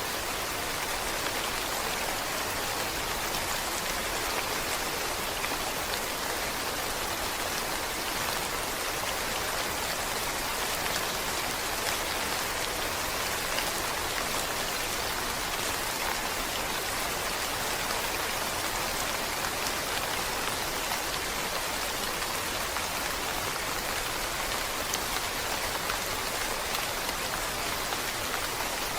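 Steady rain falling, an even hiss with many fine drop ticks that holds constant throughout.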